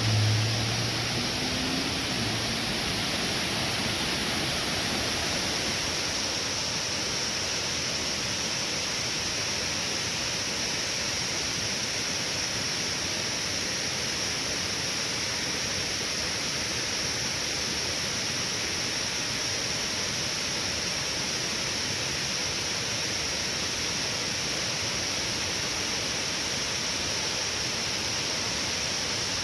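Large waterfall: a steady, unbroken rush of falling water. In the first second or so a brief low hum sounds under it.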